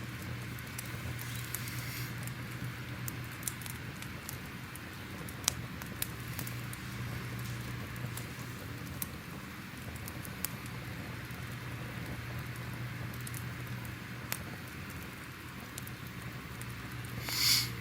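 Crackling fire: a soft steady hiss with scattered sharp pops and crackles, a low hum underneath, and a louder burst of crackling near the end.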